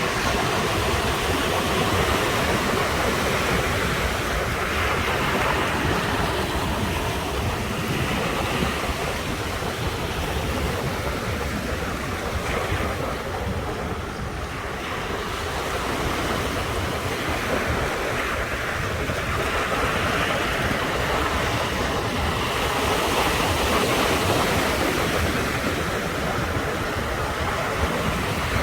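Ocean surf washing ashore in a continuous rush that swells and eases every several seconds, with wind rumbling on the microphone.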